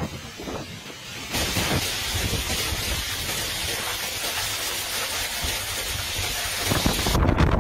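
Storm downpour with strong wind: a dense, steady hiss of heavy rain. Near the end, gusts buffet the microphone with a heavy low rumble.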